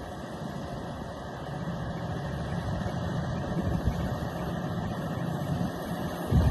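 Volvo FH540 haul truck's diesel engine pulling hard under a heavy load on a steep climb, with a steady heavy rumble and a loud knock near the end.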